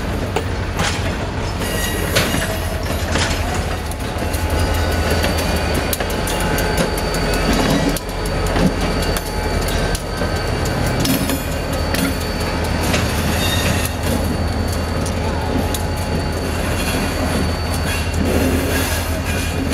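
Passenger train rolling slowly past, its diesel locomotive giving a steady low rumble. Over it come the irregular clicks of wheels over rail joints and thin, steady wheel squeal.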